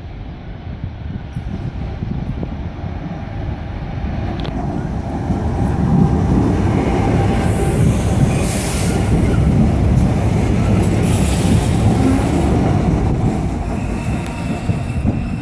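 Trenitalia Minuetto regional train pulling into a station platform and slowing to a stop: the low rumble of the running gear builds as it passes close by, with two brief high-pitched hissing bursts near the middle as it brakes, then eases off near the end.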